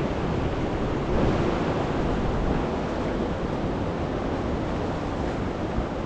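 Steady rushing of a river in flood, with no pauses or distinct events.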